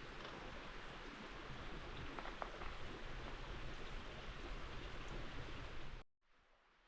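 Steady rush of a clear river flowing, with a few faint ticks, cut off sharply about six seconds in.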